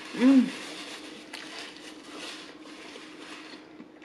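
A short hummed 'mmm' that rises and falls in pitch, then close-up chewing of a mouthful of bacon double cheeseburger, with small mouth clicks, fading out near the end.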